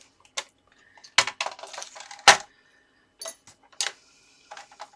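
A scoring board and tool being set down and handled on a craft table: a series of sharp knocks and clattery taps, the loudest about two seconds in.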